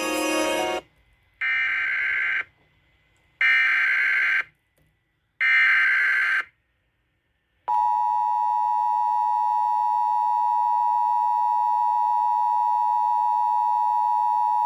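Emergency Alert System tones: three short bursts of warbling SAME data header about a second apart, then the steady two-tone attention signal held for about eight seconds. Together they announce a severe thunderstorm warning.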